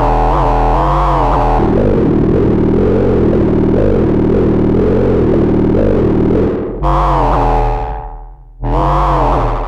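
Arturia Buchla Easel software synthesizer playing a buzzy, distorted pitched tone whose pitch wavers up and down, then two separate notes about seven and nine seconds in, each starting sharply and dying away.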